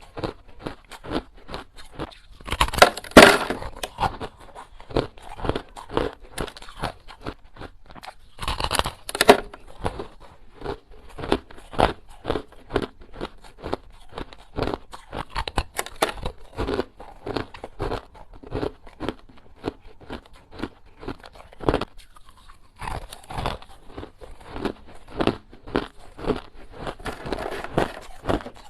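A person biting and chewing small, hard ice cubes: dense, sharp crunching and cracking, with loud crunching bites about 3 and 9 seconds in.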